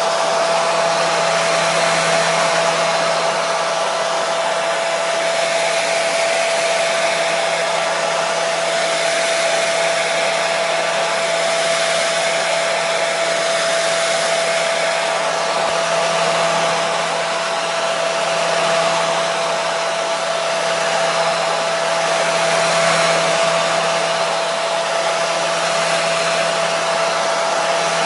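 Hair dryer running steadily: an even rush of blown air with a constant motor whine and hum, with no change in speed.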